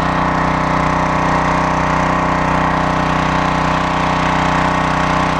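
Small gas engine of a 3000 psi, 2.5 gpm pressure washer running at a steady speed, an even unchanging hum.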